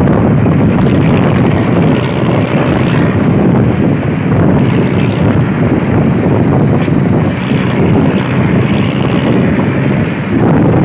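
Steady, loud rumble of a vehicle on the move, with wind buffeting the microphone.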